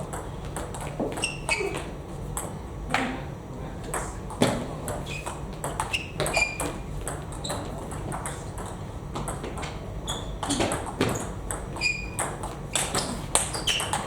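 Table tennis rally: the plastic ball clicking sharply and irregularly off bats and table, with short high squeaks among the hits.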